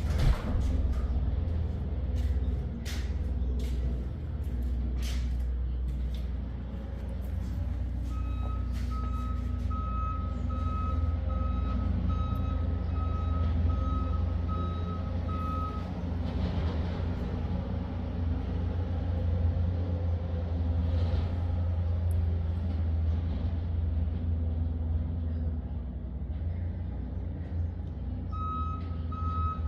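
An engine running at a steady idle, with an electronic backup alarm beeping about one and a half times a second for several seconds mid-way and starting again near the end. A few sharp knocks come in the first seconds.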